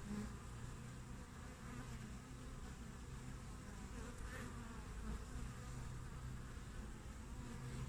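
Honeybees buzzing at the hive entrance, a steady hum with the louder drone of single bees swelling and fading as they fly close past.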